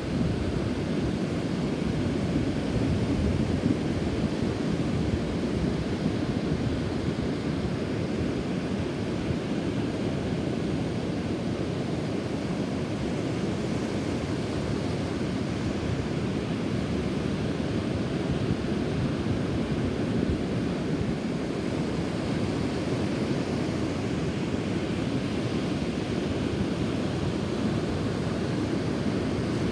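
Ocean surf on a rough, typhoon-stirred shore, a steady wash of breaking waves with wind blowing across the microphone.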